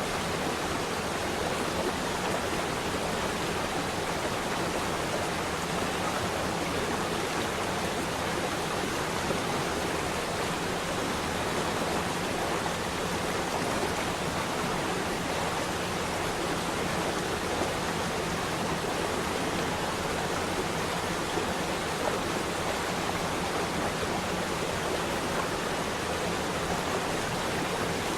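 Flowing water rushing in a steady, even wash with no breaks or changes.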